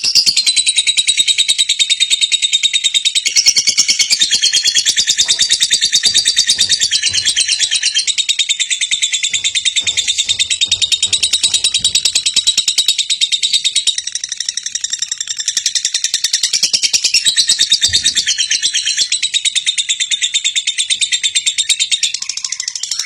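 Lovebird in a long, unbroken ngekek: a very rapid, high-pitched chattering trill that goes on without a pause, wavering slightly in pitch. This long ngekek (ngekek panjang) is the song that lovebird contests judge.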